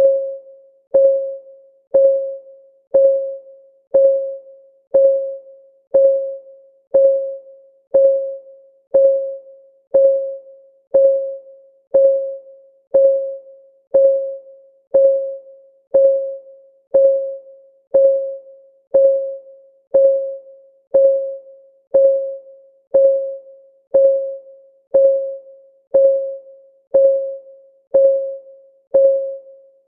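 Clock-ticking sound effect of a countdown timer: one short, pitched tick every second, each ringing briefly and dying away, perfectly steady.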